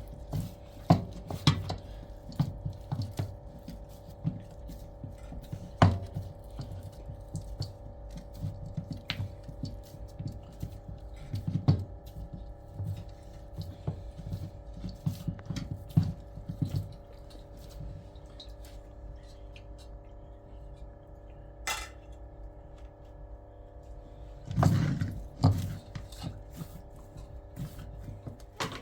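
Irregular knocks and clicks of objects being handled, over a steady low hum.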